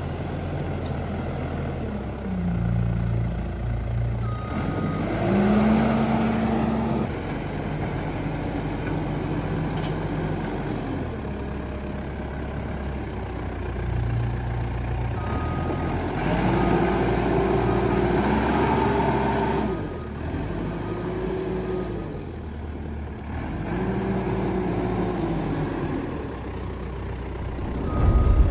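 Backhoe loader's diesel engine running and revving up and down repeatedly under hydraulic load as the machine works.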